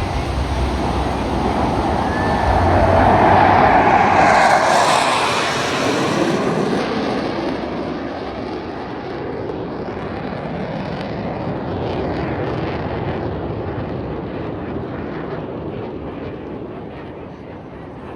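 Blue Angels F/A-18 Super Hornet jet flying past. The jet noise builds to its loudest about four seconds in, drops in pitch as the jet goes by, then fades away.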